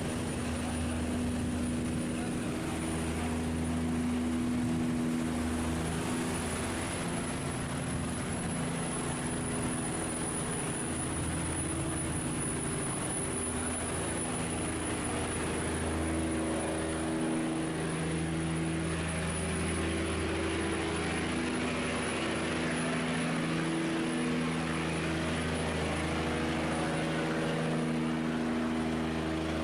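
Ship's engine running steadily, its low notes shifting slowly, over the rushing hiss of fast-flowing water.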